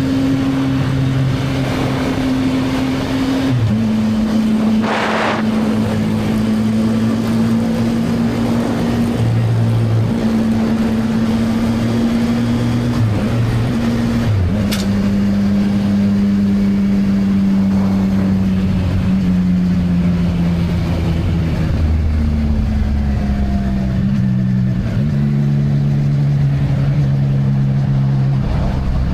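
CFMoto 675NK three-cylinder engine through its stock exhaust, running under way with wind noise. The engine note holds steady, then drops in pitch in sudden steps a few times, about 4, 14 and 25 seconds in.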